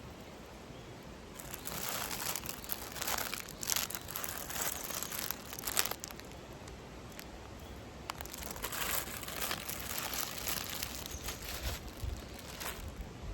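Irregular crinkling and rustling of something being handled, starting about a second and a half in, in uneven bursts with a few sharp clicks.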